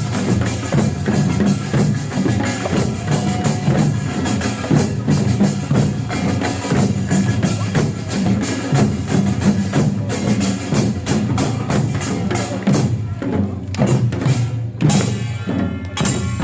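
Korean pungmul percussion band playing at full tilt: kkwaenggwari small gongs, janggu hourglass drums, buk barrel drums and jing gongs in a fast, dense rhythm of the Jinan Jungpyeong-gut farmers' music tradition.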